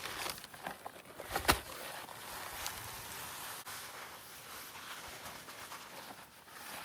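Dry cement mix being poured from a bag, a steady pouring hiss, with one sharp knock about a second and a half in.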